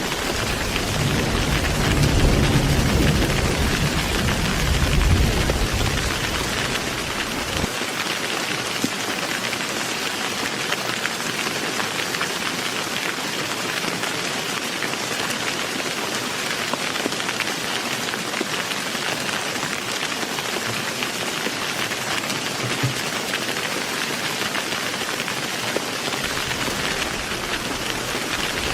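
Heavy rain pouring steadily. A low thunder rumble swells twice in the first several seconds, then cuts off abruptly about eight seconds in.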